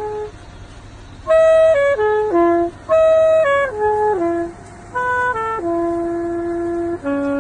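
A wind instrument playing a slow tune of single held notes in short phrases, with brief pauses between them.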